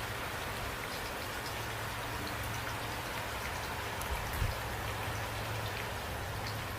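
Steady rain falling, a continuous hiss with scattered individual drops ticking sharply, over a steady low rumble. A short, soft low thump comes about four and a half seconds in.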